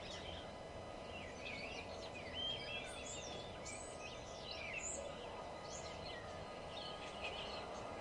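Several songbirds singing and calling at once, many short chirps and whistled phrases rising and falling in pitch and overlapping, over a steady low hum of background noise.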